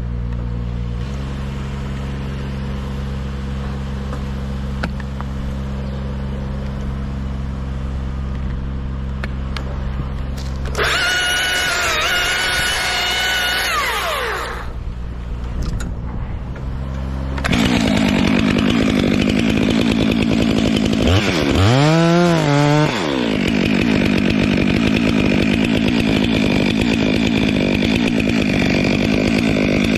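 Two-stroke chainsaw idling, revved to full speed for about three seconds and let fall back to idle, then from a little past halfway held at full throttle through a cut, its pitch dipping and climbing again once partway.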